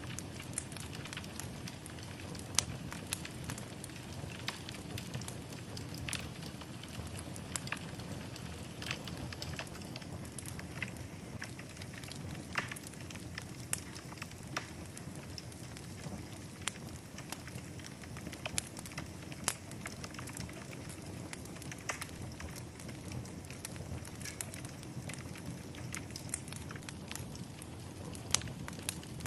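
Wood fire in a fireplace crackling, with irregular sharp pops and snaps over a steady low rush of flame.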